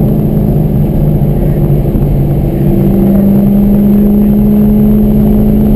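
The 2003 Corvette Z06's 5.7-litre LS6 V8 running hard under throttle on track, heard from inside the cabin. Its note dips slightly, then climbs and gets a little louder from about halfway as the car pulls again, with tyre and wind noise underneath.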